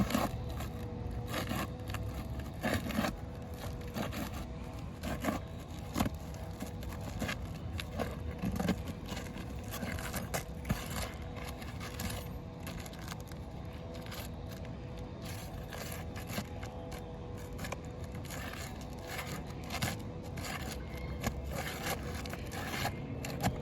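Metal roofing pry tool scraping and clicking under 3-tab asphalt shingles, working at roofing nails to pop them loose, in a run of irregular short scrapes and small knocks. The nails are rusted through.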